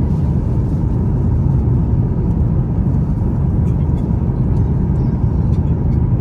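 Steady, loud low rumble of an Airbus A350-900 cabin in cruise: engine and airflow noise heard from an economy seat, with a few faint clicks.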